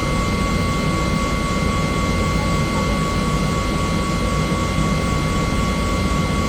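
Bell helicopter running steadily: an even low drone of rotor and engine with a constant high-pitched whine over it.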